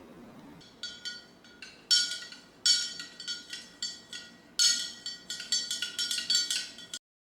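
A series of irregular sharp metallic taps or clinks, each with the same bright ringing note, as if one resonant metal object is struck or knocked again and again. The sound cuts off abruptly near the end.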